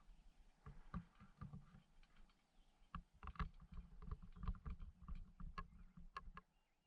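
Canoe being paddled: quiet paddle strokes in the water with many small irregular clicks, knocks and drips.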